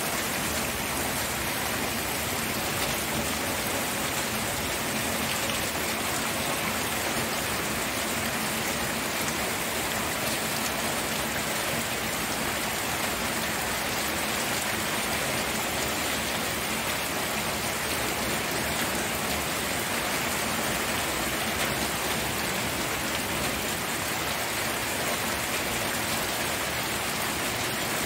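Steady rainfall: an even hiss of rain falling on surfaces, with no thunder or other events.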